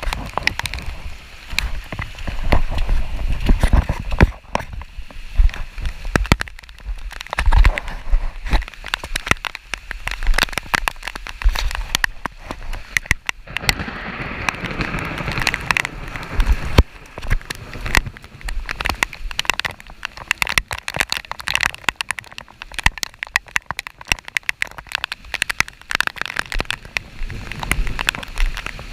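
Rain falling, with many close, irregular drops hitting near the microphone in a dense crackle, over a low rumble.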